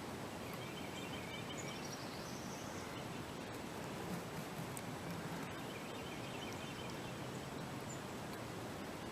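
Outdoor ambience: a steady background hiss with faint, distant bird chirps, twice in short clusters.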